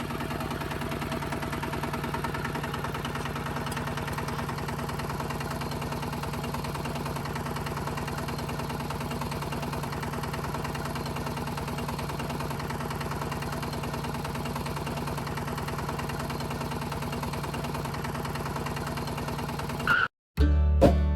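Small engine of a DIY miniature tractor running steadily at constant speed. It cuts off suddenly near the end.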